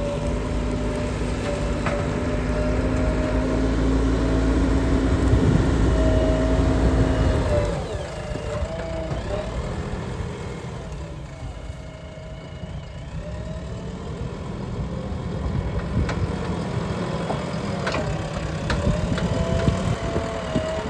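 A JCB backhoe loader's diesel engine runs steadily. About eight seconds in its sound drops and shifts, with a wavering higher whine bending up and down, and it builds again near the end.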